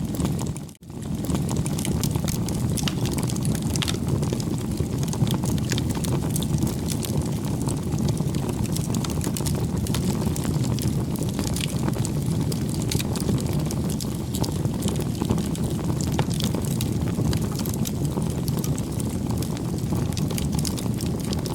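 Wood bonfire burning: a steady low rushing of the flames with frequent crackles and pops of the wood. About a second in the sound briefly fades out and comes back in.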